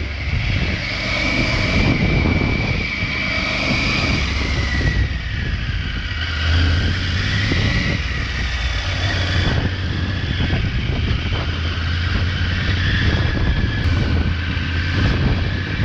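Triumph Tiger 900 Rally Pro's inline-triple engine with its stock exhaust, running steadily while the bike is ridden along.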